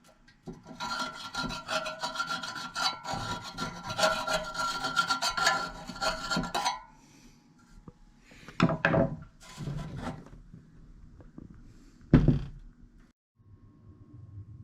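Stiff brush scrubbing the dusty blades of a furnace blower's fan wheel, a steady rasping for about six seconds, then a few short separate scrubbing strokes.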